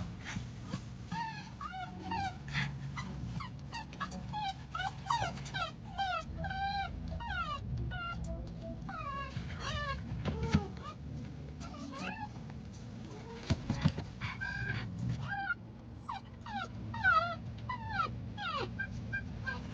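A dog whining over and over in short, high cries that bend up and down in pitch, over the low rumble of a car cabin.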